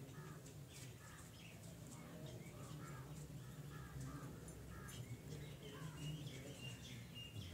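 Birds chirping and calling, many short repeated calls with some higher, held notes near the end, over a steady low hum.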